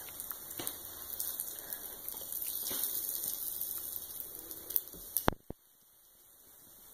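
Hot oil sizzling in a skillet as floured rice balls fry, heard as a steady hiss. About five seconds in there is a sharp click, and then the sizzle cuts off to near silence.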